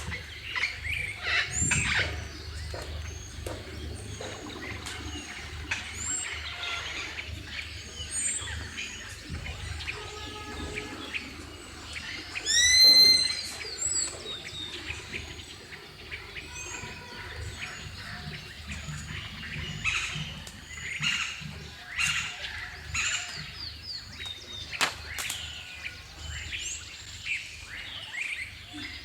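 Several birds chirping and singing together, a steady chorus of short chirps and trills, with one louder call about halfway through.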